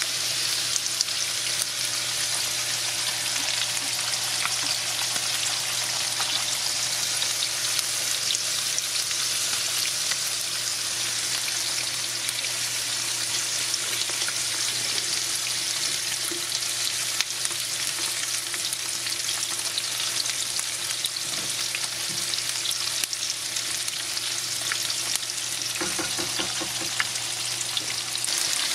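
Tilapia fillets and Brussels sprouts frying in olive oil and butter in two pans: a steady sizzling hiss with small crackles throughout.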